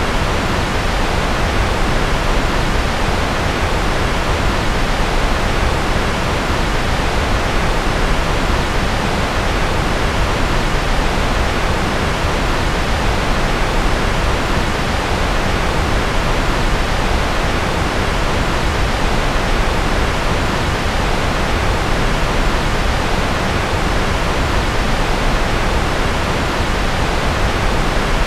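Steady synthetic noise, the kind played as white noise for focus: a constant, even rush that is a little heavier in the lows than the highs, with no changes.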